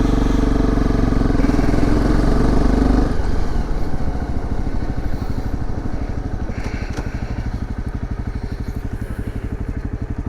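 Dirt bike engine running, dropping back about three seconds in to a steady, evenly pulsing idle.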